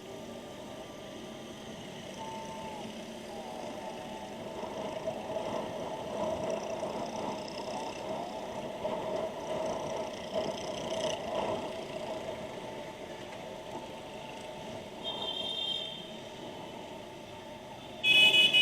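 Steady road traffic and engine noise heard through a motorcycle helmet's microphone while riding, with little wind noise. A short, fainter horn toot comes about 15 seconds in, and a loud vehicle horn honks near the end.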